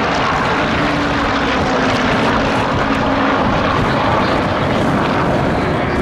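Rolls-Royce Merlin-engined Second World War piston fighter flying by in display, its propeller engine giving a loud, steady drone.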